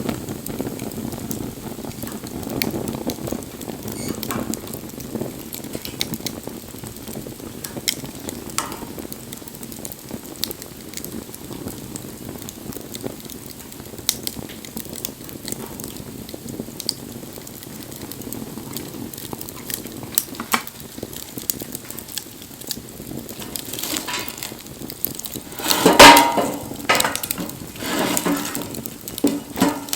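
Wood fire crackling, with frequent sharp pops over a low, steady burning rush. In the last few seconds there is a louder clatter of knocks, loudest about four seconds before the end.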